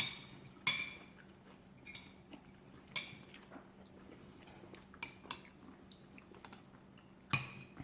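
Cutlery clinking against plates at a meal, about six sharp, ringing clinks spaced irregularly a second or two apart, with quiet in between.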